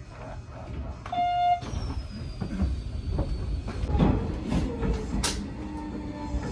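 Hanshin local electric train slowing as it pulls into a station: a steady low rumble of the running gear, with a high whine that slowly falls in pitch as it brakes. A short beep sounds about a second in.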